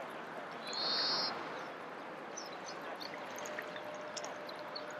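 Outdoor ambience: a steady hiss-like background with a songbird's short buzzy trill about a second in and scattered faint chirps.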